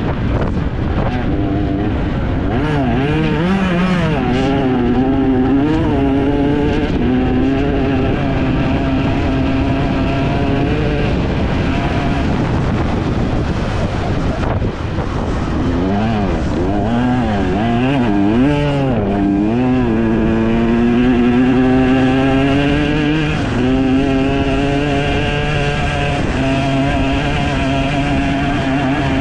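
Off-road enduro motorcycle engine under hard riding, the pitch rising and falling quickly as the throttle is blipped and gears change, with steadier held stretches in the middle and near the end. The engine's drone sits over a steady rush of wind and ground noise.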